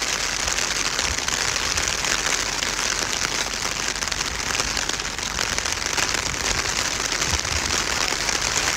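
Steady rain falling on a wet road.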